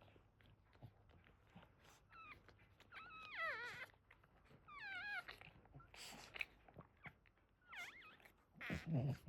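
Newborn Boston terrier puppies crying: several short, high, wavering squeals, one after another, with a louder low sound near the end.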